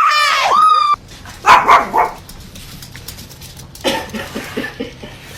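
A dog whining and barking: a long wavering whine at the start, two loud barks about a second and a half in, then a run of short, quieter yips near the end.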